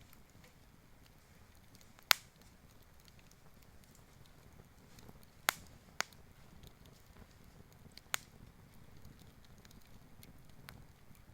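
A campfire of fallen forest wood crackling faintly, with four sharp pops, the loudest about two seconds in and the others near five and a half, six and eight seconds.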